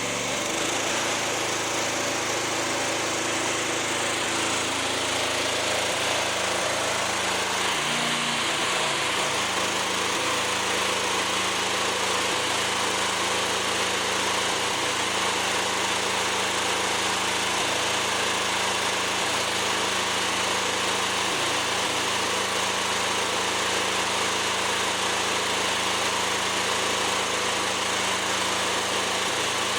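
Riding lawn mower engine running steadily at idle on a test run, checked for the misfire or fuel-starved stumble it had shown. There is a brief change in its note about eight seconds in.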